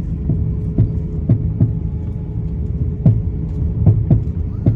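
Airbus A350-900 cabin noise on the ground: a steady low rumble of engines and airframe with a constant hum. Irregular dull thumps, about eight in the stretch, come as the landing gear rolls over joints in the pavement.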